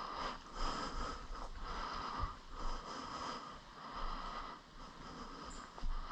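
A player's breathing close to the microphone, in irregular noisy breaths.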